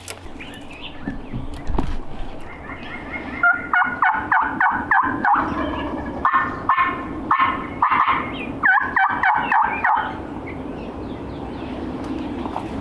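Wild turkey gobbler gobbling: several rattling gobbles in close succession, starting about three and a half seconds in and ending about ten seconds in. The bird is fired up and gobbling every few seconds.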